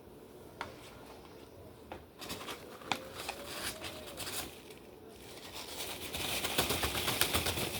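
Knife cutting an onion on a cutting board: scattered sharp taps, then a quicker, denser run of taps and crackles that grows louder over the last two seconds.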